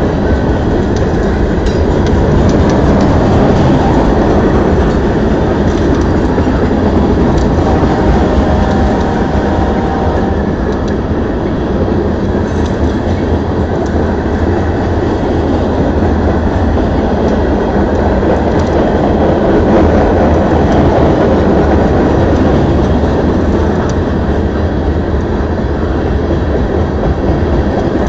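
CSX mixed freight train's cars rolling past close by: a steady, loud rumble of steel wheels on the rails, with occasional clicks.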